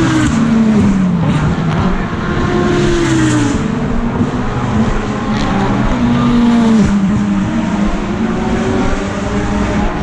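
GT3 race cars running past at speed, several engine notes rising and falling through gear changes and as they pass. One note drops sharply about seven seconds in.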